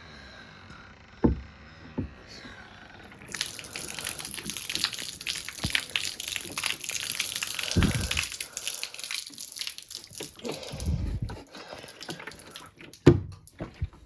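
Water being poured out of a condenser tumble dryer's plastic water container: the pour starts about three seconds in, runs steadily for about eight seconds and thins to a trickle near the end, with a few knocks of the container.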